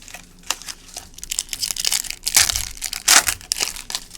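Plastic trading-card pack wrapper crinkling and crackling as it is torn open and handled, with two louder bursts of crumpling in the second half.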